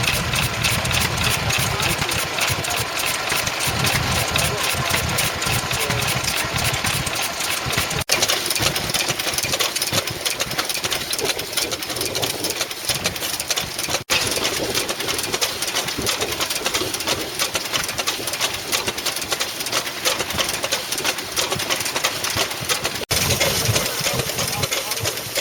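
Vintage stationary engines running with a rapid, steady firing beat. The sound changes abruptly three times as one engine gives way to another.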